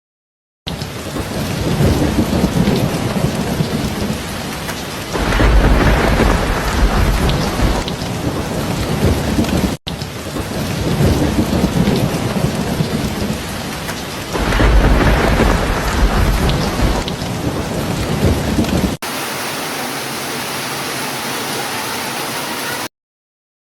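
Heavy rain falling in a thunderstorm, with a deep roll of thunder rising twice about nine seconds apart. It starts abruptly after a moment of silence and cuts off abruptly near the end.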